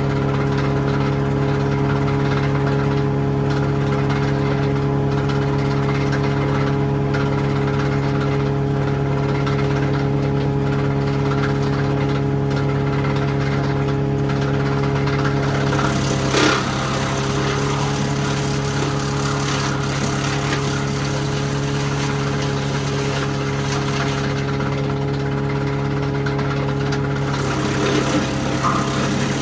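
Diesel engine running at a steady speed, with one sharp knock a little past halfway and some clatter near the end.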